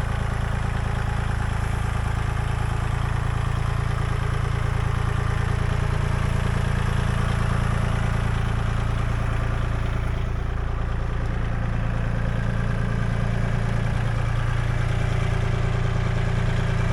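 Kubota L2501 compact tractor's diesel engine running steadily.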